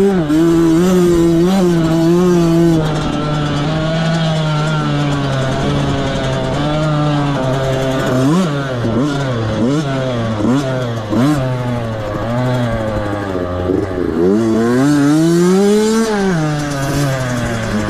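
Small 65cc two-stroke motocross bike engine revving up and down on the race track, heard from the rider's camera. The pitch climbs and drops again and again as the throttle opens and closes, with several quick rises and falls in the middle and one long rise and fall near the end.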